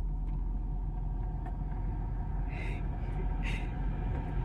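Ford Edge SUV running in reverse gear, a steady low rumble from the engine and drivetrain, with two brief soft noises about two and a half and three and a half seconds in.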